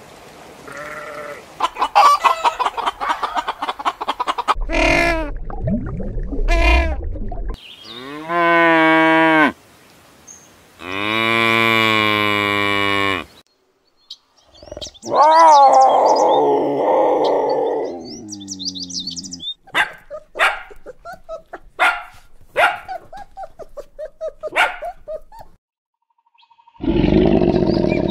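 A run of different animal calls, one after another with short gaps; the first of them are sheep bleating.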